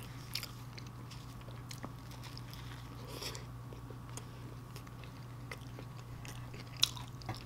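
Quiet, close-miked chewing of a soft sloppy joe sandwich: wet mouth sounds with a few soft clicks, over a low steady hum.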